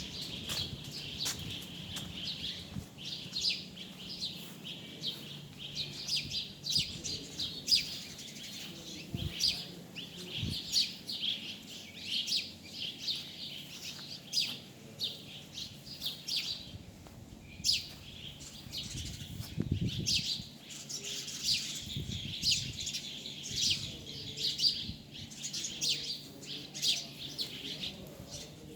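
A flock of birds chirping continuously, with many short, high, overlapping calls. A faint low hum runs underneath.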